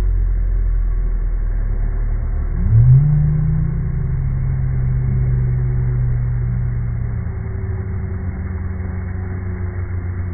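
Slowed-down recording at an erupting geyser: a deep, loud rumble. About a quarter of the way in a tone sweeps upward and then holds steady for several seconds before dying away near the end.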